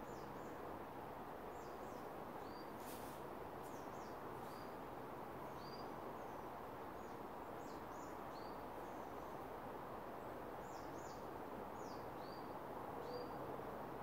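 Small birds giving short, high-pitched chirps and quick falling whistled notes, one or two a second, over a steady rushing background hiss. A faint low held note comes in near the end.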